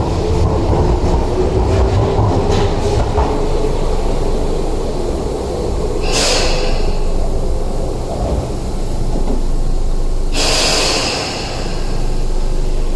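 Tobu 70000 series electric train moving along the platform, its rumble, motor tone and wheel clicks dying away over the first few seconds. Two short hisses follow, about six and ten seconds in.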